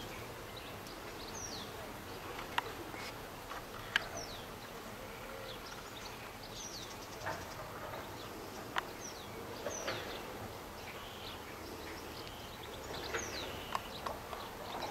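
Outdoor ambience with a bird repeating short chirps that fall in pitch, about one every second or so, and a few sharp ticks, one standing out about four seconds in.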